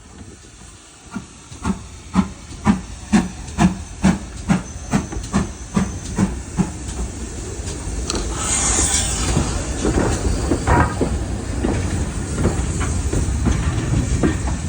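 GWR Manor class two-cylinder 4-6-0 steam locomotive 7828 Odney Manor pulling away. Its exhaust beats come about two a second and quicken slightly, a burst of steam hiss follows about eight seconds in, and then the locomotive and train run on with a steady rumble.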